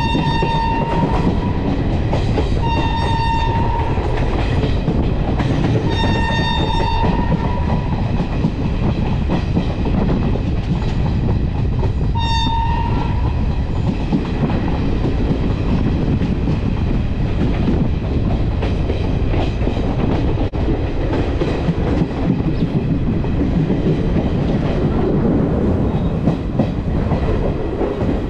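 Passenger train running along the track with a steady rumble and wheel clatter. A locomotive horn sounds on one steady pitch: a blast that ends about a second in, two more blasts of about a second each soon after, and a short toot about twelve seconds in.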